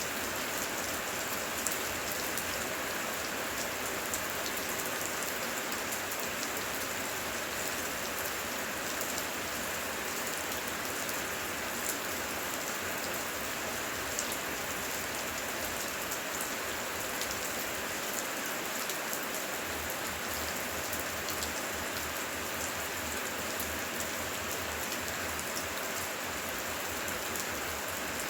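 Steady heavy rain falling, with many sharp ticks of single drops through the even hiss.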